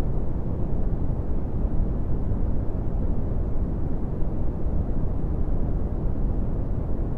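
Brown noise: a steady, deep rumbling hiss, strongest in the low end and falling away toward the highs, with no change or events.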